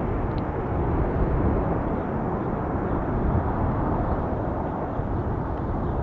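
Boeing 787-9 jet airliner's engines: a steady, heavy low rumble of a landing jet.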